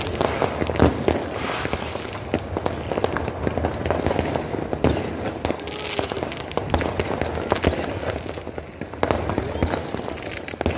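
Many fireworks and firecrackers going off at once: a dense, unbroken run of bangs and crackling pops, thinning briefly shortly before the end.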